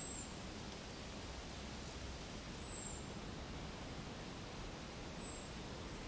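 Soft, steady outdoor wind ambience with a small bird repeating a thin, high whistle that falls slightly in pitch, three times about two and a half seconds apart.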